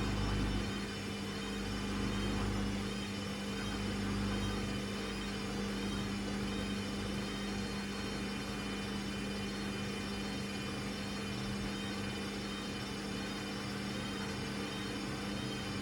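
Hoover Custom Vision washing machine running with a steady electrical hum and whir. There are low rumbling swells in the first few seconds, after which it settles to an even drone.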